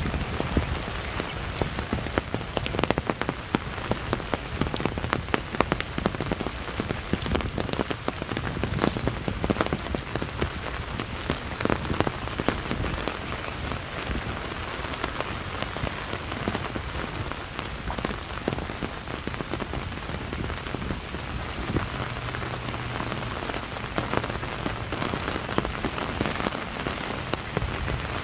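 Steady rain falling, with many sharp, close raindrop impacts throughout.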